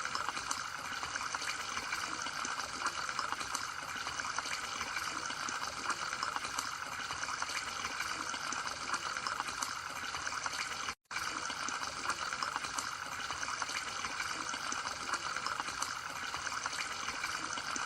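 Steady trickle of running water, broken once by a brief cut-out about eleven seconds in.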